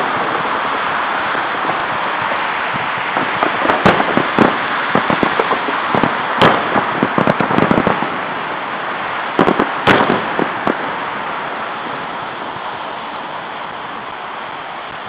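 Fireworks salute shells bursting in a string of bangs and crackles, clustered from about three to eight seconds in and again around ten seconds, over a steady hiss that slowly fades toward the end.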